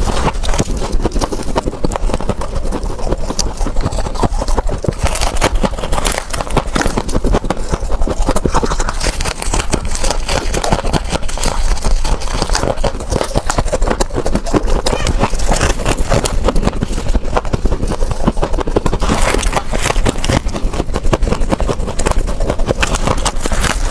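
Close-up crunching and chewing of freezer frost ice: a continuous run of crisp, rapid crunches from bites of the scraped refrigerator ice.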